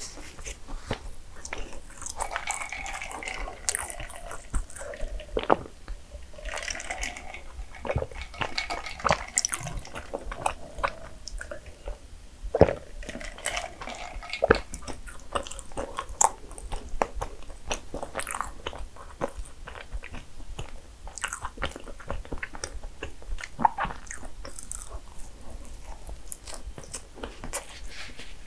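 A person chewing and biting into cinnamon rolls, close up, with many small sharp crunchy clicks throughout.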